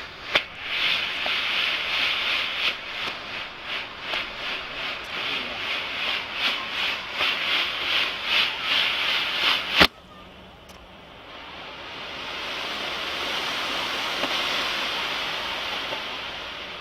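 Double-ended smoke firework hissing as it burns and pushes smoke out of both ends of its tube, after a sharp crack just at the start. The hiss pulses about twice a second, breaks off sharply a little under ten seconds in, and then a softer hiss swells and fades.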